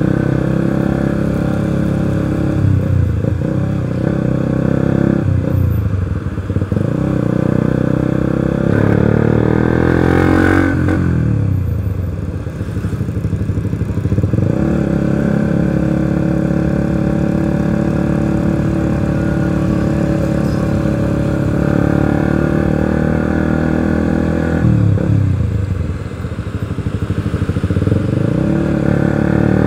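Motorcycle engine running while riding in traffic, its pitch dipping and rising again several times as the bike slows and speeds up.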